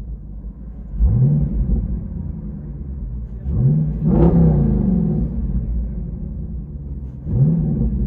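Jeep Grand Cherokee SRT's 6.4-litre HEMI V8 idling through an aftermarket exhaust and blipped three times. The middle rev goes highest and lasts longest, with a steady low rumble between the revs.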